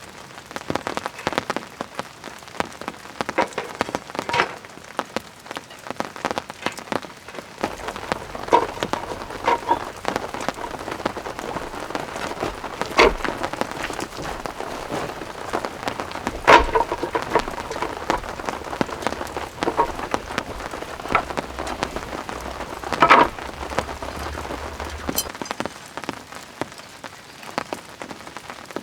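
Steady rain falling, a dense patter of drops with three louder, heavier drips standing out.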